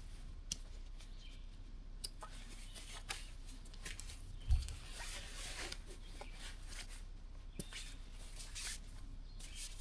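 Scattered rustling and light clicks of things being handled, with one dull thump about four and a half seconds in.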